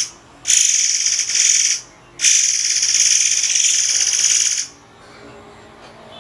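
Murai air (forktail) calling in two long, shrill, rasping bursts of very rapid notes, the first about a second long and the second about two and a half seconds, with a short pause between. It falls quiet about three-quarters of the way through.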